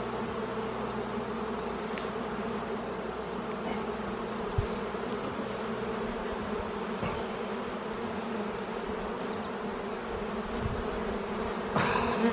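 Honeybees from an open hive buzzing in a steady, dense hum of many wings. A soft knock comes about four and a half seconds in.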